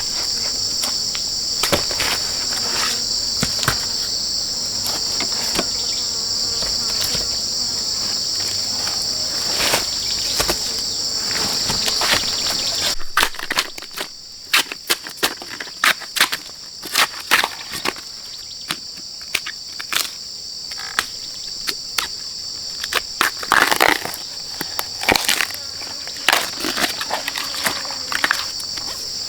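Steady, high-pitched chorus of insects, with scattered clicks and knocks that come thicker in the second half.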